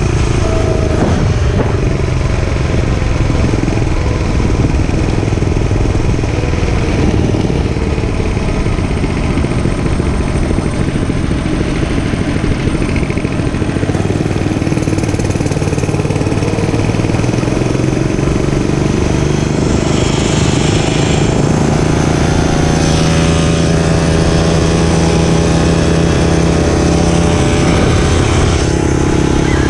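Dirt bike engine running under way, its pitch shifting with the throttle and climbing about two-thirds of the way through before holding steady.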